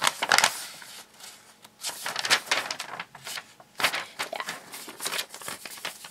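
Crinkling and rustling of packaging being handled, in irregular bursts with a few louder crackles.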